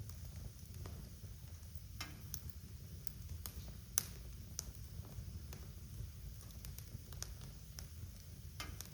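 Wood fire crackling in a fireplace: irregular sharp pops and snaps over a low steady rumble of the flames, with one louder pop about four seconds in.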